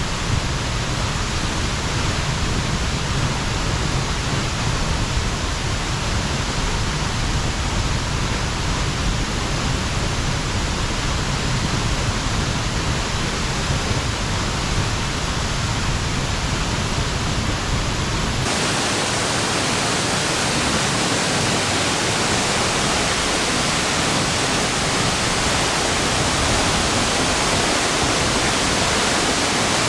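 Waterfall pouring into its plunge pool: a steady, loud rush of falling water and spray. About two-thirds of the way through the sound changes suddenly, losing its deep rumble and turning hissier.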